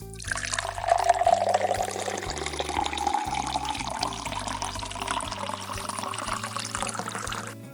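Liquid pouring steadily into a glass for about seven seconds, its pitch rising slightly as the glass fills.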